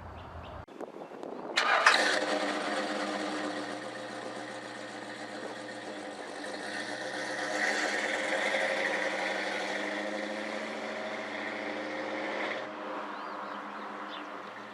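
A motor vehicle's engine starts with a sudden burst, then runs steadily and swells a little in the middle before cutting off abruptly near the end.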